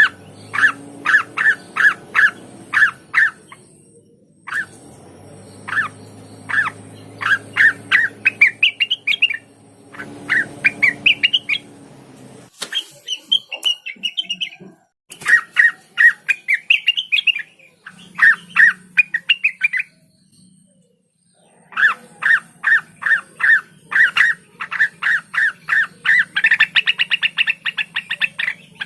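Blue-winged leafbird (cucak wilis) singing loud, sharp repeated notes, about three a second, in phrases that climb in pitch, broken by short pauses and speeding into a rapid trill near the end.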